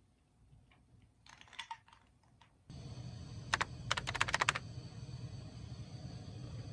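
A few faint clicks, then a steady low hum comes in suddenly and a quick run of about ten sharp clicks follows, lasting about a second.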